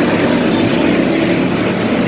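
A field of race cars running on track, their engines making a loud, steady, dense mechanical noise.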